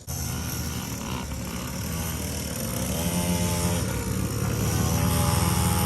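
Small 50cc kids' dirt bike engine running, its pitch rising and falling with the throttle about halfway through and growing steadily louder as the bike comes closer.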